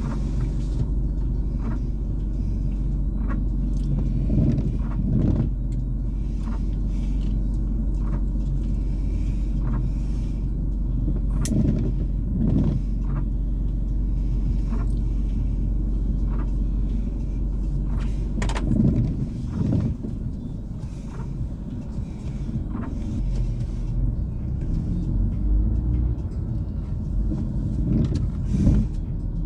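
Car interior while driving: steady engine and road rumble, with a few brief irregular knocks and bumps.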